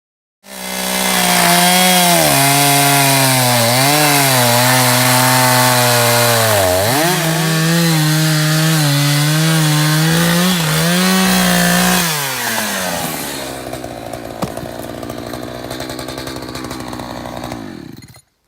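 Chainsaw running hard at high revs, its pitch sagging and recovering a few times as if under load. About twelve seconds in it winds down and runs lower and quieter until it cuts off near the end.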